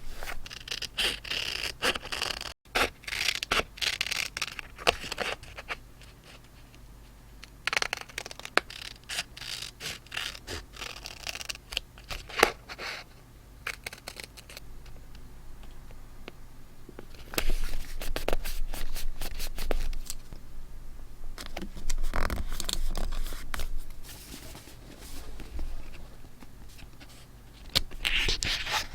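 Close-up paper handling during scrapbooking: rustling and scraping of paper with scattered light clicks and taps, coming in bursts with quieter pauses between.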